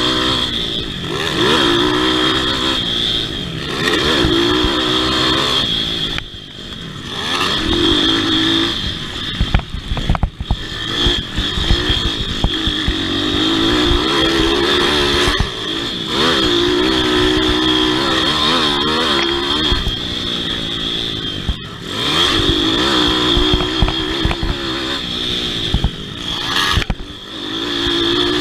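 Pit bike's small single-cylinder four-stroke engine at race pace, revving up and down repeatedly as the throttle is worked, with a few brief drops when the throttle is shut off.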